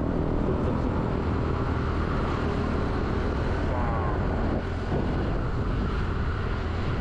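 Steady running noise of a moving car, engine and road rumble with wind, picked up by a camera mounted on the outside of the car.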